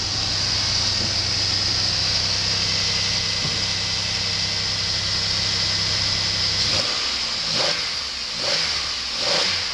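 2003 Pontiac Grand Am GT's 3.4-litre V6 running at a steady idle, then revved three times in quick succession over the last few seconds. The engine sounds healthy.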